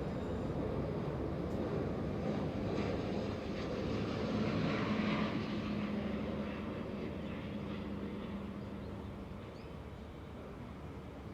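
Jet engine noise from an Airbus A350-900's Rolls-Royce Trent XWB engines as the airliner comes in to land. A broad rumble carries a steady hum; it swells about four seconds in, then slowly fades.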